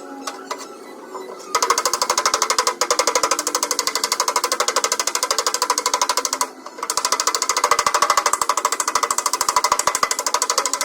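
Rapid metallic tapping on the sheet-metal door panel of a Ford Ranger as a dent is worked out, at roughly ten strikes a second. It starts about a second and a half in and breaks off briefly a little past the middle.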